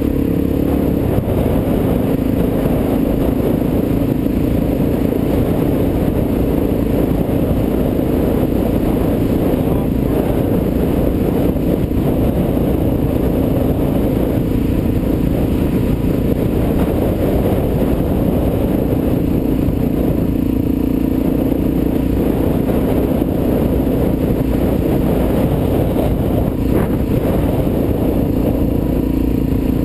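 Suzuki DR-Z400's single-cylinder four-stroke engine running under way, its note rising and falling with the throttle, over steady wind noise on the camera microphone.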